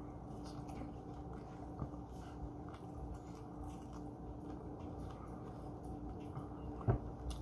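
Quiet chewing and mouth sounds of a person eating rice and barbecued meat, with small clicks and one louder knock near the end, over a faint steady hum.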